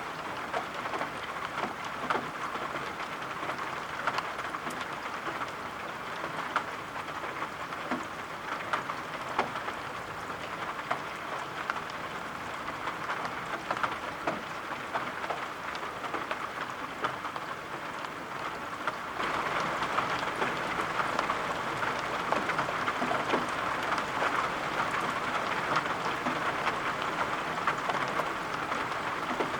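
Steady rain falling, with scattered drops ticking through it. About two-thirds of the way through, the rain suddenly gets louder.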